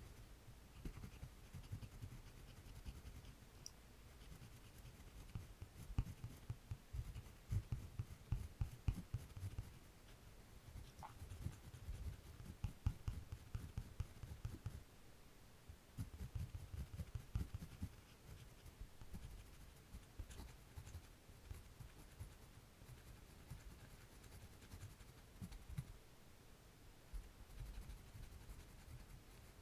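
Quiet, irregular scratching strokes of drawing on paper, with soft low bumps from handling.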